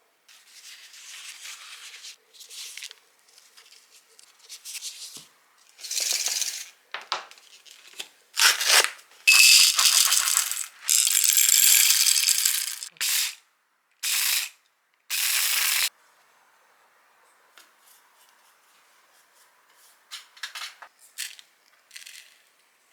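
Plastic packaging rustling and crinkling in a series of bursts of different lengths while food is handled and repacked, loudest in the middle, then a few light clicks and taps near the end.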